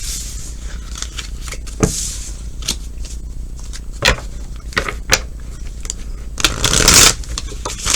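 Tarot cards being shuffled by hand: scattered light clicks and slaps of the cards, with a longer riffling burst about six and a half seconds in.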